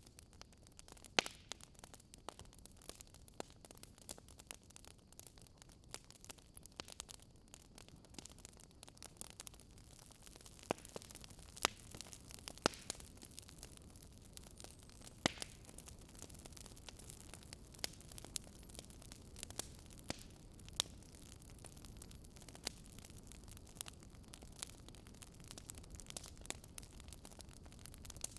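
Wood fire crackling in a fireplace: irregular sharp snaps and pops, some louder ones scattered through, over a low steady rumble of the flames.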